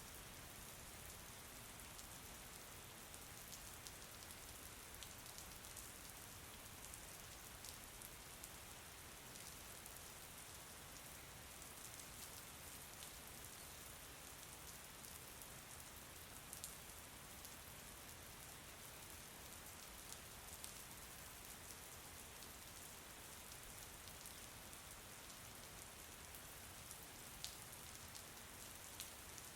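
Steady rain falling on a surface, a soft even hiss with scattered louder drops ticking now and then.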